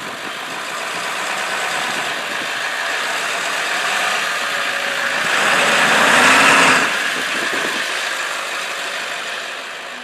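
1999 Ford F350's 7.3-litre V8 turbo diesel idling steadily, freshly cold-started after four months of sitting. About halfway through the sound swells louder and brighter for a second or so, then settles back.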